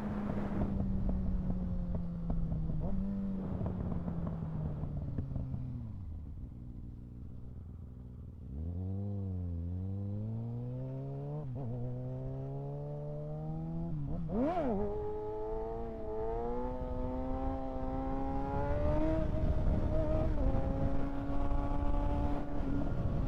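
Kawasaki ZX-6R 636 inline-four sport bike engine, its revs falling off as the throttle is closed, then, about eight seconds in, rising again under throttle with a sharp rev spike about two-thirds of the way through, before settling at a steady higher pitch. Wind rushes over the microphone throughout.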